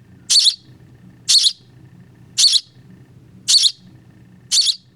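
Baby bird cheeping: five short, high chirps, evenly spaced about one a second.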